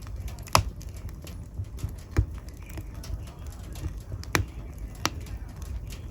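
Wood fire in a fireplace crackling, with a steady low rumble under many small snaps and a few sharp pops, the loudest about half a second in and again around two, four and five seconds in.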